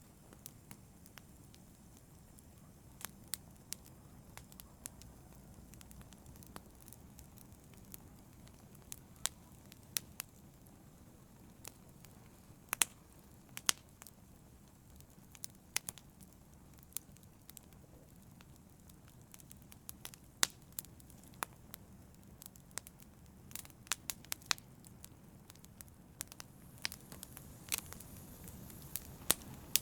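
Wood fire crackling: irregular sharp pops and snaps, a few each second, over a soft low rumble of the flames.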